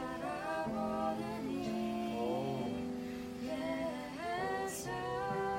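Voices singing a slow worship song over a strummed acoustic guitar, with long held notes that glide between pitches.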